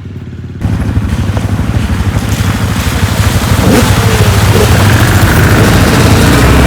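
Off-road vehicle engine running under way, with wind and ride noise over it. It cuts in abruptly about half a second in and grows louder.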